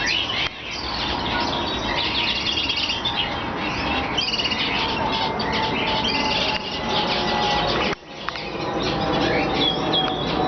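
Aviary birds chirping and squawking together in a dense, continuous chatter of high calls, with two brief dips in loudness: one about half a second in and one near eight seconds in.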